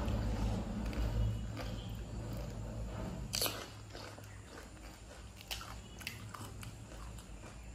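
Pani puri being eaten: crisp hollow puris crunching and being chewed, with a few short sharp crunches, the loudest about three and a half seconds in, over a low steady hum.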